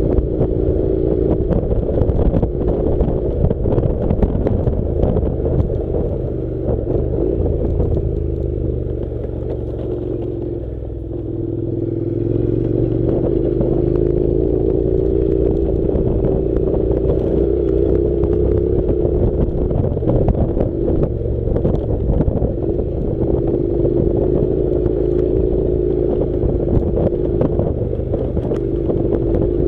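Honda NC700's parallel-twin engine running steadily under way on a dirt track, with frequent clattering and rattling from the rough ground. The engine eases off about ten seconds in and picks up again a couple of seconds later.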